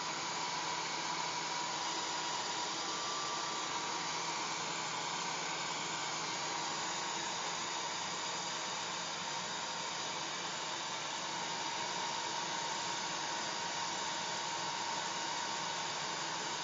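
Hair dryer running steadily, a constant rushing blow with a faint steady whine in it.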